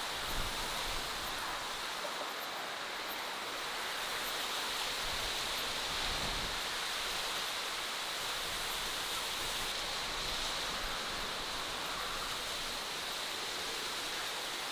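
Steady, even rushing noise of outdoor natural ambience, with a few faint high ticks.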